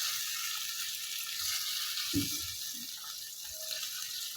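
Chicken curry hissing steadily in the hot pot just after a little water has been added to the browned masala, fading slightly; a faint knock a little past two seconds in.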